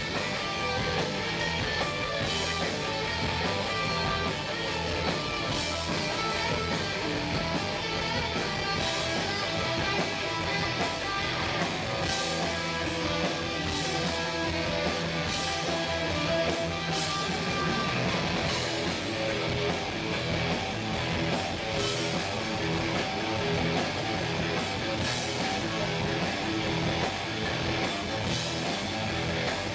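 Rock band playing live: electric guitar strumming over a steady drum beat, with no singing in this passage.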